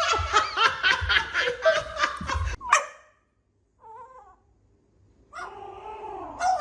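A person laughing hard in quick repeated bursts for about two and a half seconds, then cutting off abruptly.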